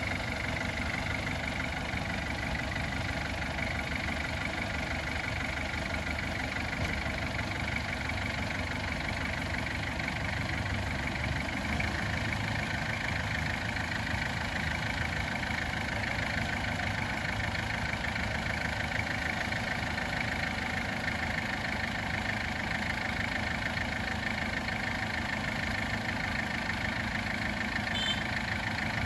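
Diesel engine of a piece of earthmoving equipment running steadily at a constant speed, with a few short clicks near the end.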